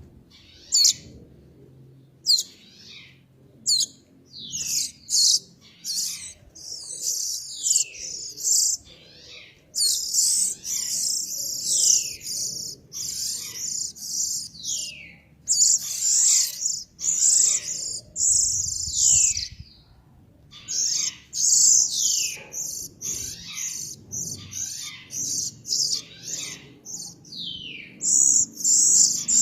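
Small songbird singing: quick high chirps and notes that slide downward, broken by bursts of fast, very high trills.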